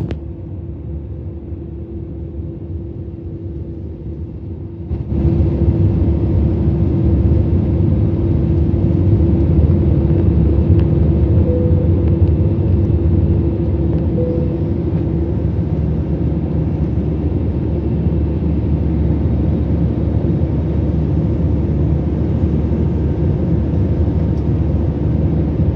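Airliner cabin noise during the climb: a steady low rumble of jet engines and airflow with a steady hum through it. It jumps suddenly louder about five seconds in.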